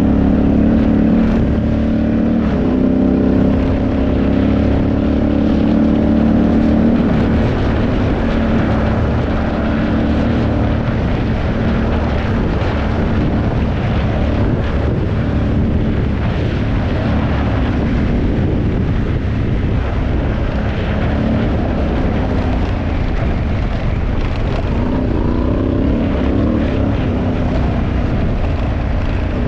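2018 Honda Africa Twin's parallel-twin engine running steadily under way through an Akrapovic exhaust. The pitch eases down about seven seconds in and rises again near the end.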